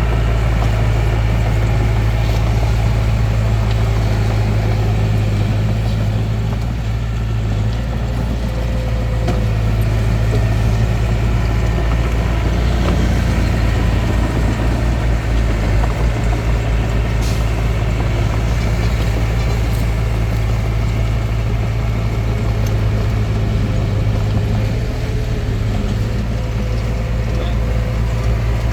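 Hitachi DX45M bulldozer's diesel engine running steadily with a deep drone. It eases off slightly about a quarter of the way in and again near the end as the machine works.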